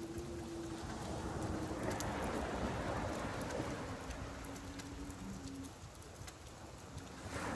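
Rain falling with surf washing in, a steady hiss with faint scattered ticks. A faint low steady hum runs under it, sinking slightly in pitch and stopping about six seconds in. The wash swells again near the end.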